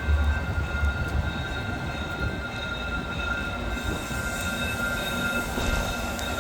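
Train running past with a low rumble and steady high-pitched wheel squeal.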